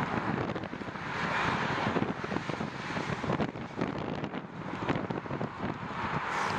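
Wind buffeting the microphone during a bicycle ride, a steady rush with gusty swells about a second and a half in and again near the end.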